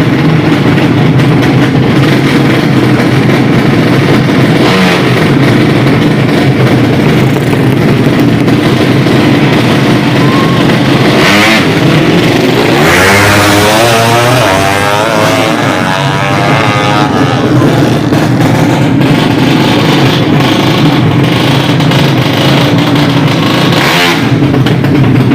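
Race motorcycles running loudly at a drag strip. Around the middle, one engine revs hard, its pitch rising and then falling.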